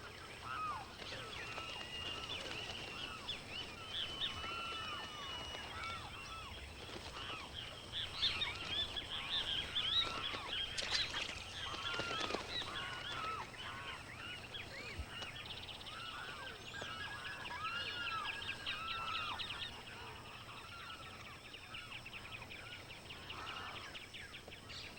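A dense chorus of wetland birds calling over one another: many short arching calls and rapid chattering notes. It is busiest about halfway through and thins out toward the end.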